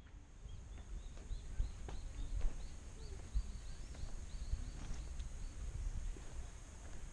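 A bird chirping over and over, short high notes about three a second for several seconds, over a steady low rumble with a few soft knocks.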